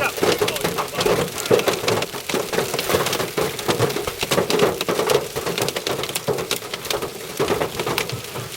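Heavy rain drumming on a hard surface, likely the storm chaser's vehicle, with many sharp separate hits mixed in throughout.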